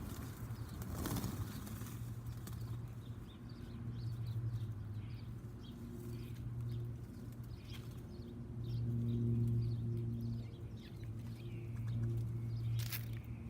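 Small backyard songbirds chirping in short, scattered notes over a steady low hum that swells and fades every few seconds. There is a brief sharp click about a second in and another near the end.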